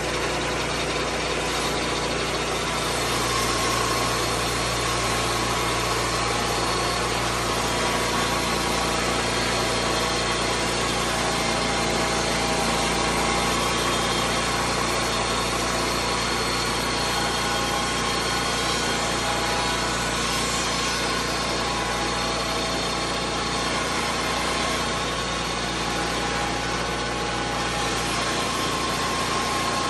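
Lucas Mill 10-30 swing-blade sawmill's engine running steadily with an even, unchanging tone.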